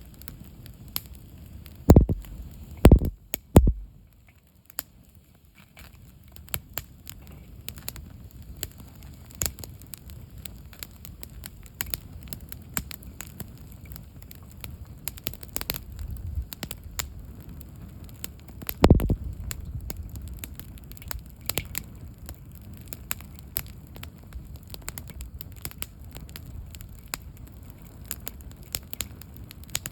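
Wood campfire burning down after its log stack has collapsed, crackling with many sharp pops and a few heavier low thumps about two, three and nineteen seconds in.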